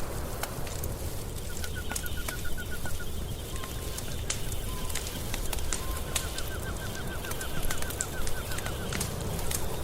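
Wood fire crackling and popping over a low rumble, with scattered sharp snaps. A rapid chirping trill of evenly repeated notes comes in twice, first briefly and then for about three seconds.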